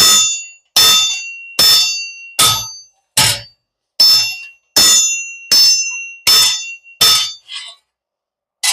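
Hammer striking metal on a railroad-rail anvil, a steady series of about ten blows a little under a second apart, each one ringing. The last couple of blows near the end are lighter.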